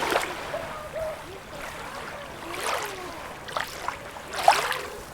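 Small sea waves washing and splashing at the shoreline every second or so, with water bubbling and gurgling between them; a sharper splash comes about four and a half seconds in.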